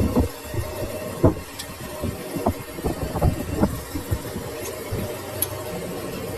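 Lathe running with a steady hum, with several sharp metal knocks scattered through it.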